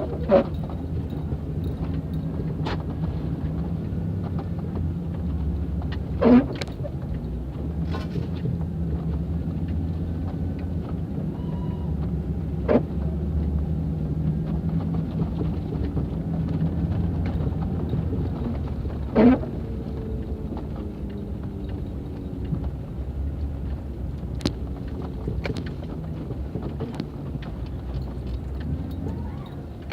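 Motor vehicle running steadily with a low rumble, broken by a few short sharp knocks.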